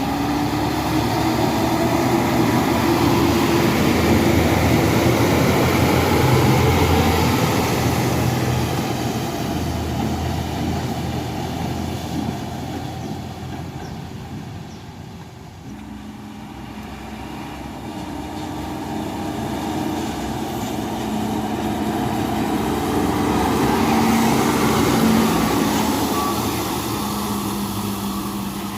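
Heavy dump trucks driving past one after another, each engine growing louder as it nears and fading as it goes: one passes about five seconds in, a second about twenty-five seconds in.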